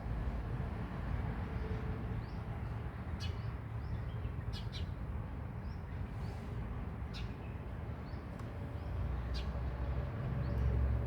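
Small birds in a tree giving short, high chirps every second or two, over a steady low rumble.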